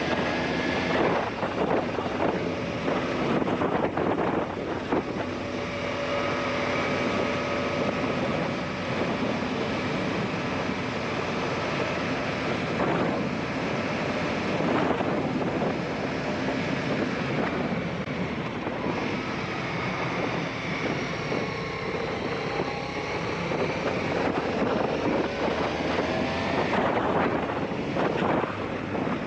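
Aprilia Shiver 750 V-twin engine running under way, its pitch rising and falling as the rider works the throttle and gears, under heavy wind noise on the microphone.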